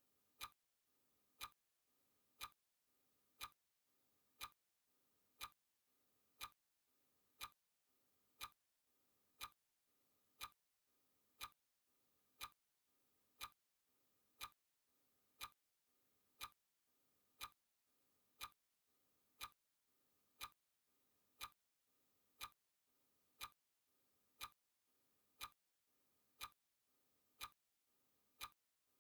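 Countdown timer's clock-style ticking sound effect: a faint, sharp tick once every second, evenly spaced.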